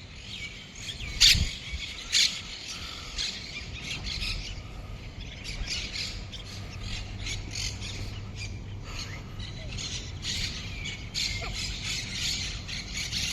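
A flock of small birds chirping, many short, quick chirps overlapping, with a couple of louder ones about a second and two seconds in.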